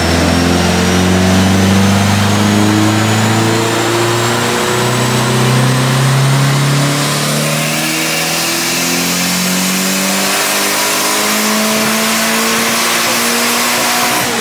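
Toyota MR2's engine at full throttle on a chassis dynamometer, its revs climbing steadily in pitch with a short break about four and a half seconds in, then climbing again. A faint high whine rises along with the engine.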